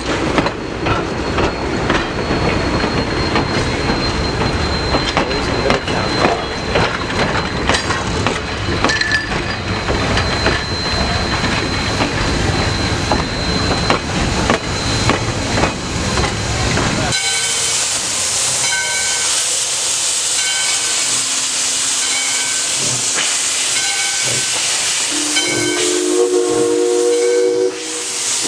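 Train rolling past with rumble and wheel clatter, then a steam locomotive standing with steady hissing steam and a short ringing tone about once a second. Near the end it sounds its chime whistle briefly.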